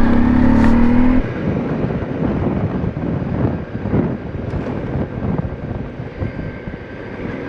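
Motorcycle engine pulling hard, its tone rising slightly for about the first second, then easing off into a rougher mix of engine and road rush.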